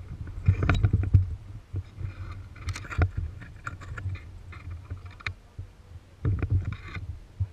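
Wind rumbling on the microphone, with three short spells of crunching and scraping noise.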